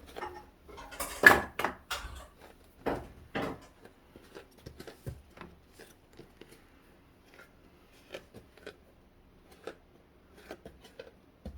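Toy kitchen play: scattered knocks and clatter of toy dishes and play food being handled on a wooden IKEA DUKTIG play kitchen. The loudest knocks come in the first few seconds, then lighter taps.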